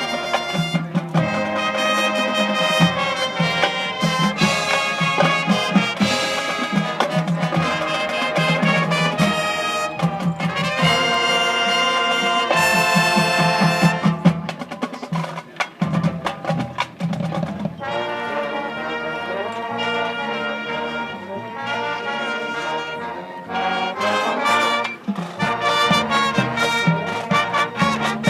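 Marching band playing its show live: brass (trumpets and trombones) carrying sustained chords over drumline percussion, with a thinner, quieter passage about halfway through before the full band comes back in.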